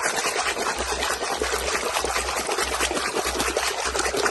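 Water running and splashing in a steady, crackling stream, with a faint low rumble coming and going underneath.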